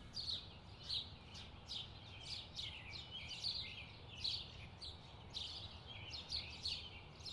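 Small birds chirping: a steady run of short, high chirps, about two or three a second, over a faint low background rumble.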